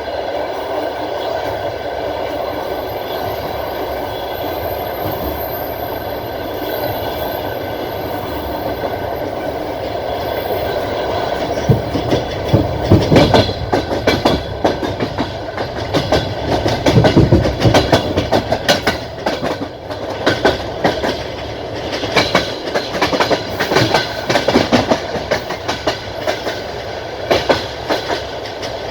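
Passenger train coach rolling along the track, heard from inside at a coach window. It starts as a steady rumble, and from about twelve seconds in the wheels clatter loudly and unevenly over rail joints.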